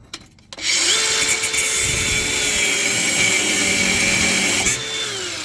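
Cordless cut-off tool with an abrasive disc cutting through a steel exhaust-clamp bolt: the motor spins up, then runs with a steady whine that sags slightly under load. Near the end the level drops and the whine rises again as the disc breaks through, then the tool stops.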